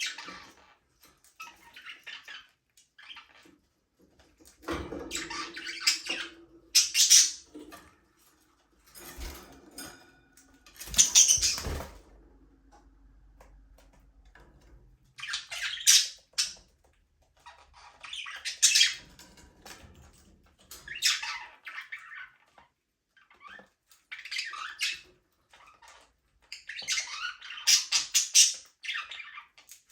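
Budgerigars chattering: short scratchy chirps and squawks in irregular bursts, several birds overlapping, with brief pauses between.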